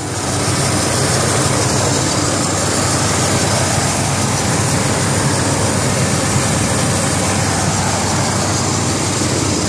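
1979 Buick Regal's V8 engine idling steadily, heard up close in the open engine bay: a steady rushing noise over a constant low hum, a little louder from about half a second in.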